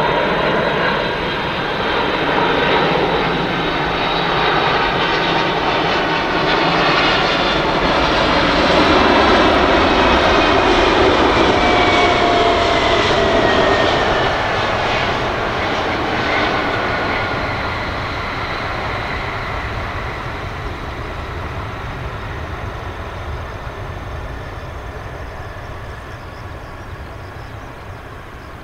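Jet engine noise of a four-engine Boeing 747-400 on landing approach passing the listener. It swells to its loudest about a third of the way in, the engine whine falls in pitch as it goes by, and then it fades away.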